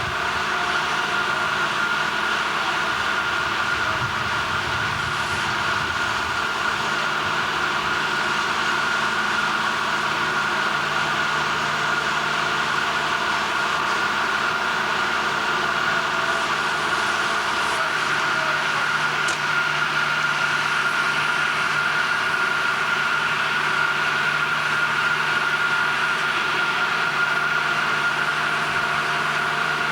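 Steady industrial machinery noise with a constant high-pitched whine running through it, and a low hum that sets in about seven seconds in.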